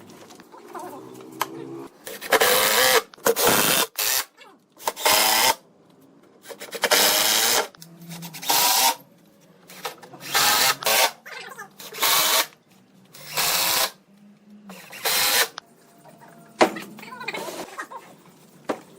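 Power drill run in short bursts, about ten times, each lasting about half a second to a second.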